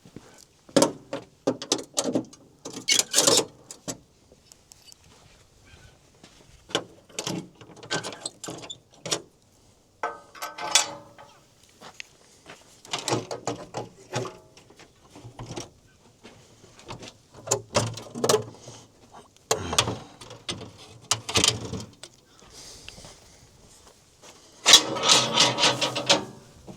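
Irregular knocks, clicks and clunks of hands and metal parts being handled around a hot truck, in scattered bursts, with a louder stretch of clattering near the end.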